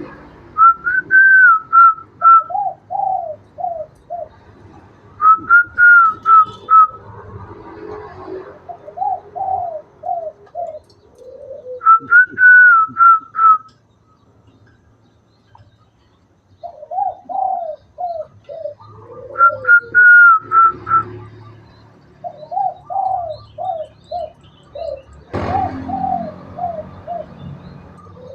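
Spotted dove (tikukur) cooing in phrases of short repeated notes, a higher run of notes answered each time by a lower run, with a pause of a couple of seconds about halfway. A brief knock or rustle comes near the end.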